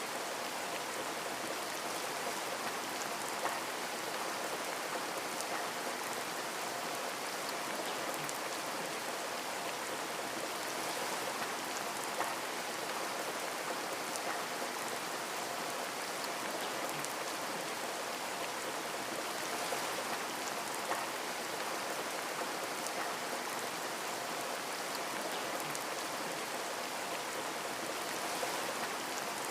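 Steady rain pattering on a window, an even hiss with scattered individual drops ticking against the glass and an occasional louder drop.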